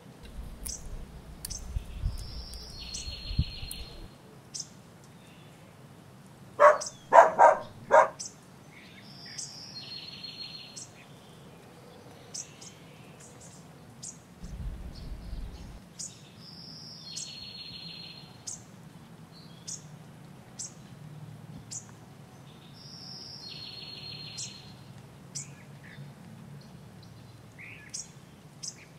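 Songbirds singing: many short high chirps and a buzzy trilled phrase repeated every six or seven seconds. About seven seconds in comes a much louder burst of four harsh notes, and there is a low rumble near the start and again around fifteen seconds.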